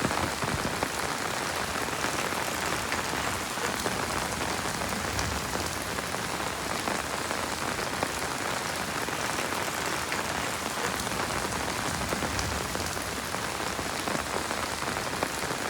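Heavy rain falling steadily: a dense, even hiss of countless drop hits with no thunder.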